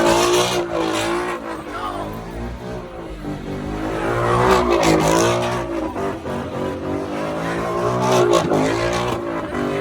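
Truck engine revving hard, its pitch rising and falling in repeated waves, with louder surges near the start, about halfway through and near the end.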